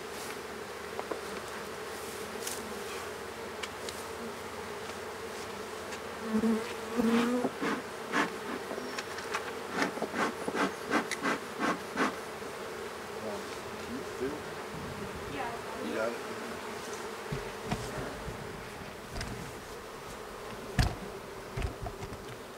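Honey bees buzzing around an open hive in a steady hum, with a run of sharp knocks and clicks in the middle and a couple of louder knocks near the end.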